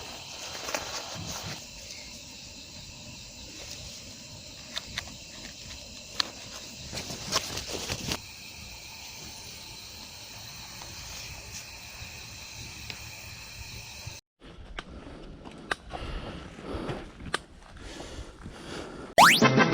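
Outdoor ambience: a steady high hiss with scattered short clicks and taps, broken by abrupt cuts, with a rising whoosh at the very end.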